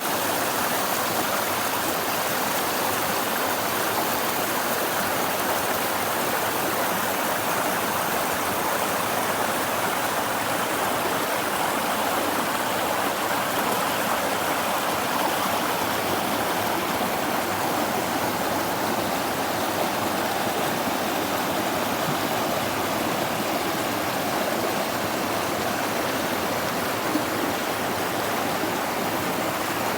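Rushing water of a stream, a steady, unbroken wash of sound.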